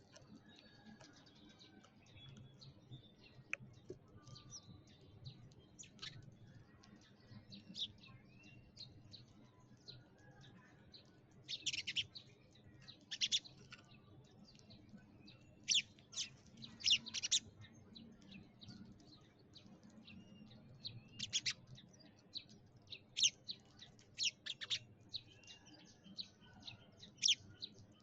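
Several sparrows chirping in short, scattered notes, busiest and loudest in clusters through the middle and later part, over a steady low hum.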